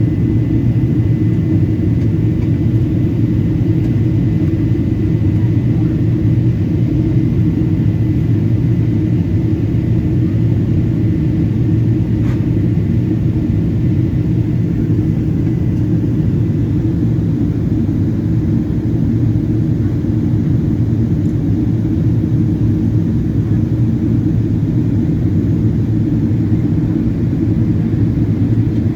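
Steady low roar of engine and airflow noise inside a Boeing 777-200's cabin in flight, with a faint high whine through the first half.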